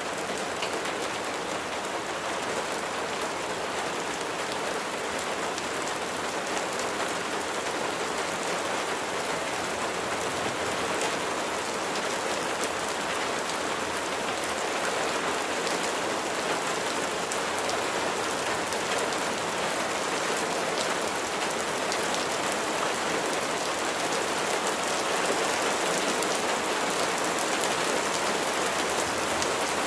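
Steady rain falling onto a hard surface, with many individual drops pattering against a constant hiss.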